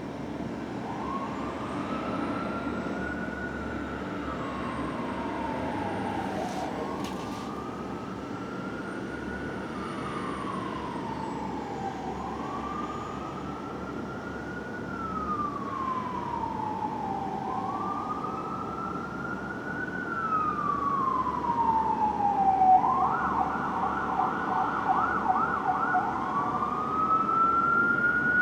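Fire engine siren in a slow wail, rising and falling about every five seconds. About two-thirds of the way through it switches to a fast yelp, then returns to the wail near the end. The truck's engine rumbles underneath, and the siren grows louder as it approaches.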